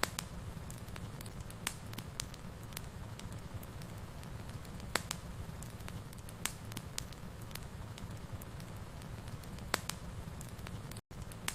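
Wood fire in a fireplace crackling: a steady low rumble of flames with sharp pops every second or so, the loudest near the start, about halfway and near the end. The sound cuts out for an instant just before the end.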